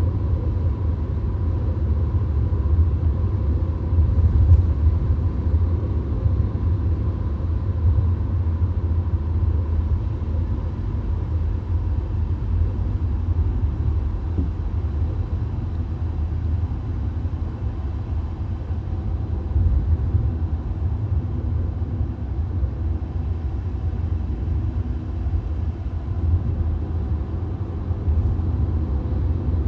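Steady low road and engine rumble inside a VW Golf cruising at motorway speed, with tyre and wind noise and a faint steady whine.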